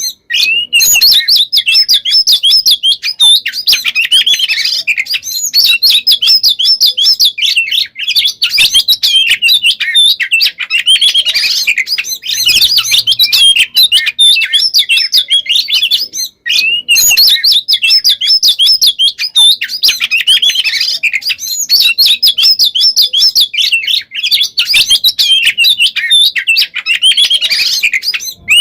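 Oriental magpie-robin (kacer) singing nonstop: loud, dense, fast phrases of whistles and rapid rolling trills. There are only brief breaks, about every eight seconds. This is the unbroken 'konslet' song style, with shot-like notes and rolls following one another without a pause.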